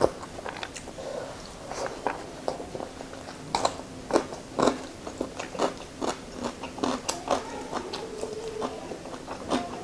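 Close-miked wet chewing of rice and fish curry, with irregular lip smacks and mouth clicks.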